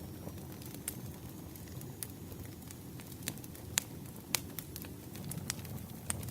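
Campfire crackling: a steady low rumble of burning wood with irregular sharp pops, about seven of them, the loudest two near the middle.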